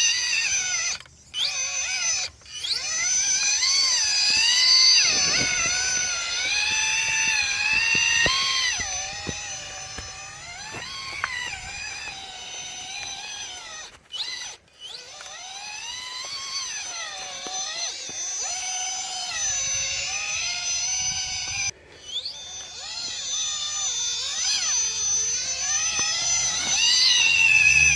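Electric motor of a modded radio-controlled short-course truck whining under throttle, its pitch rising and falling constantly as the throttle is worked, cutting out briefly a few times. A steady high-pitched whistle runs underneath.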